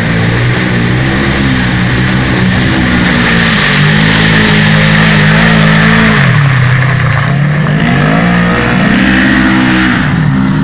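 Quad bike (ATV) engine racing, loudly revving up and easing off: the pitch climbs about a second in, holds high, drops about two-thirds through, then climbs and falls again near the end.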